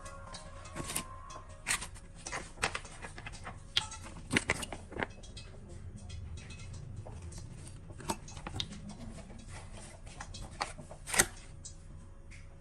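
A series of irregular sharp clicks and knocks over a low steady background rumble, the loudest knock near the end.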